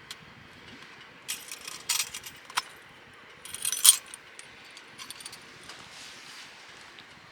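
Two short bursts of light clinking and rattling, the second one louder, over a faint steady hiss.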